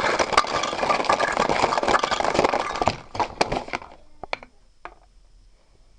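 Small toy pieces rattling and clattering: a dense, loud rattle for about three seconds, then a few separate clicks.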